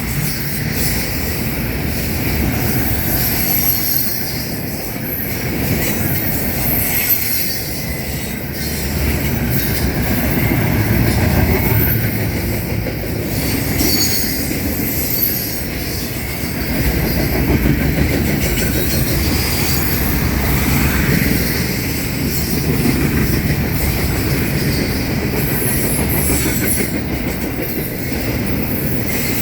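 Freight train cars rolling past: a steady rumble with the clack of wheels over rail joints and an intermittent high-pitched squeal from the wheels.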